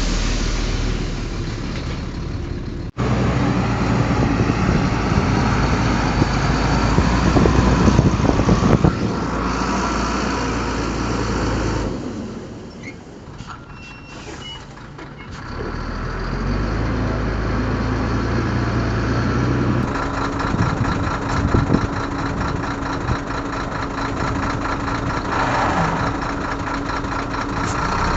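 Heavy diesel engines of a bulldozer and a dump truck running under load. The sound breaks off abruptly about three seconds in and drops quieter for a few seconds near the middle.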